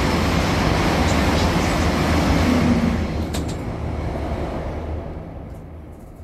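ICE high-speed train running by: a loud rush of wheel and air noise over a low hum, fading away over the last three seconds or so.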